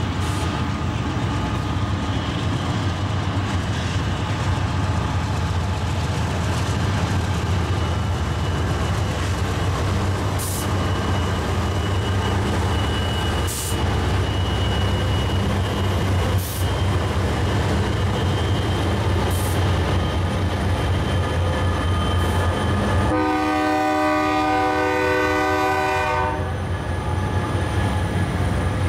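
Freight train passing close by: the low diesel drone of BNSF GE wide-cab locomotives going by, then loaded tank cars rolling past with a faint click about every three seconds. A locomotive horn blows for about three seconds near the end.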